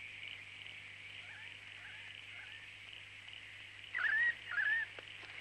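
Bird calls: faint chirps, then two louder short calls close together near the end, each rising and then holding steady, over a steady high-pitched hiss.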